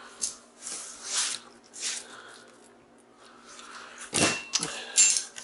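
Scraping and shuffling of metal transformer parts on a workbench, then two sharper metal clanks about four and five seconds in, each ringing briefly.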